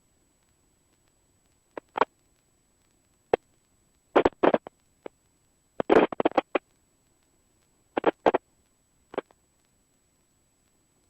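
Helicopter intercom audio cutting in and out in about a dozen short, irregular bursts of noise, with dead silence between them, as the voice-activated intercom gate opens briefly on cockpit noise.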